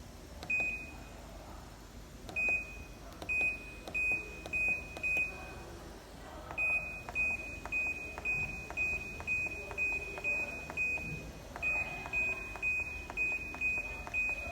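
Mini washing machine's electronic control panel beeping: short, high single-pitched beeps, one near the start, then five, then a long run of about fifteen at roughly two a second, each with a faint click.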